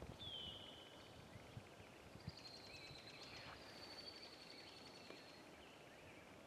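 Faint birdsong: a high falling whistle near the start, then a long high trilled phrase through the middle, with a few shorter slurred notes, over soft outdoor background noise.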